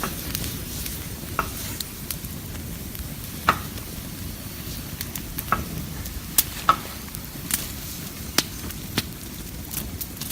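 Open wood fire crackling around bamboo tubes roasting over it, with sharp pops and snaps every second or so over a steady crackle.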